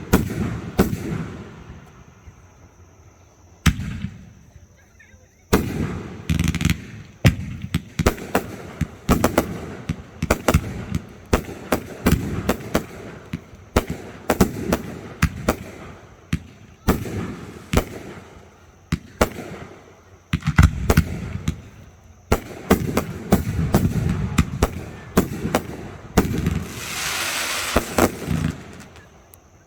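Fireworks shells bursting in quick succession, a steady run of sharp bangs one to three a second with a short lull a few seconds in. A denser hissing stretch comes near the end.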